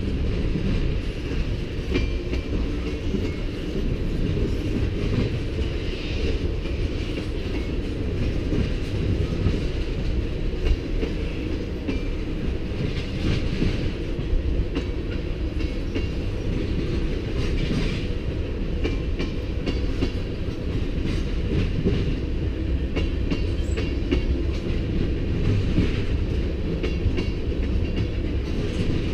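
Freight train's tank cars rolling past at steady speed: a continuous low rumble of steel wheels on rail, with intermittent clicking as the wheels cross the rail joints.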